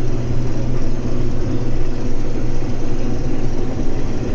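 Case IH 2388 combine running steadily while cutting wheat: a constant loud drone of engine and threshing machinery, heard from inside the cab.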